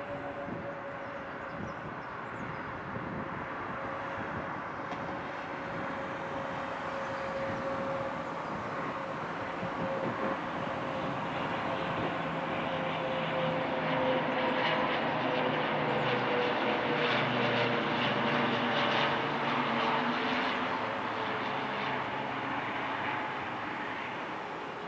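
Fokker 50 twin-turboprop airliner passing on its landing, its engines and propellers giving a steady hum with a tone that slowly falls in pitch. It grows louder to a peak in the second half, then fades.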